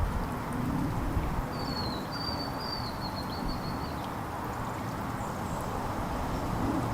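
A small songbird sings one trill, high and slightly wavering, lasting about two and a half seconds, over steady outdoor background noise.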